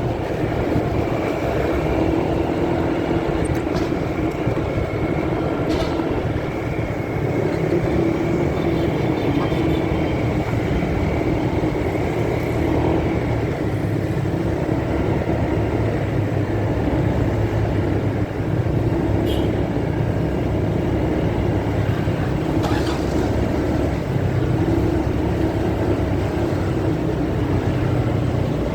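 Steady motorcycle riding noise picked up by a phone in the rider's pocket: a continuous rumble of engine, wind and road, mostly low in pitch, with a few faint clicks.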